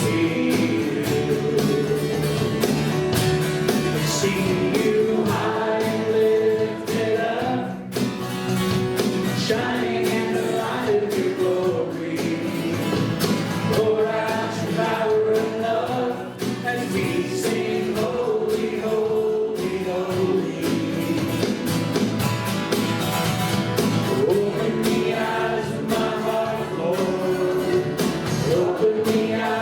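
Live worship music: several voices singing a praise song, carried by a band with guitar and a steady beat.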